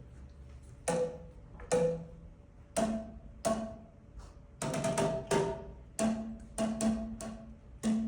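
Boomwhackers, tuned plastic tubes, struck in short rhythmic phrases. Each hit is a hollow pitched pop, and the notes come at several different pitches. The hits are spaced out at first, with a quick cluster of strikes around the middle.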